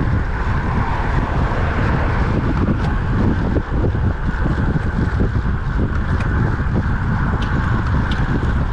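Wind buffeting the microphone of a camera on a moving road bike, a loud low rumble with a steady hiss above it.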